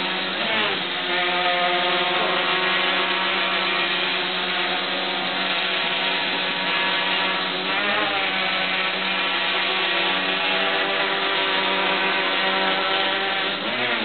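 Electric rotors of a micro aerial vehicle helicopter hovering: a steady, many-toned motor and propeller buzz, with brief wobbles in pitch about half a second in, around the middle and near the end as the motors adjust speed to hold position.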